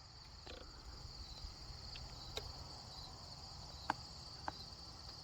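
Steady chorus of crickets, a continuous high shrill, with a few short faint clicks.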